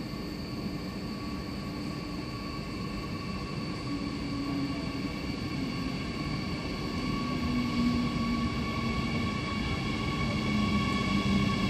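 Red DB regional electric train approaching into the underground station, its running rumble growing steadily louder. A steady high-pitched whine sits over the rumble and strengthens as the train nears.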